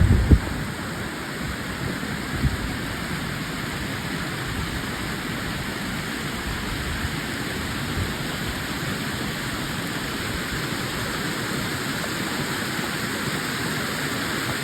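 A river rushing over rocks: a steady hiss of running water. A few short low bumps come in the first two and a half seconds.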